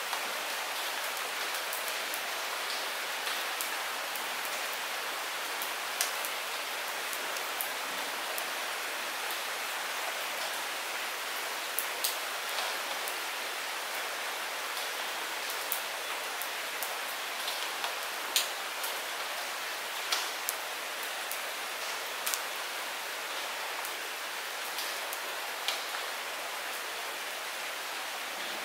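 Light rain falling steadily, a soft even hiss with scattered sharper drops ticking every second or two.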